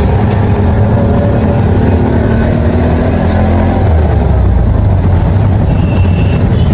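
Steady low rumble of a motor vehicle running, engine and road noise together, with no breaks or changes in speed.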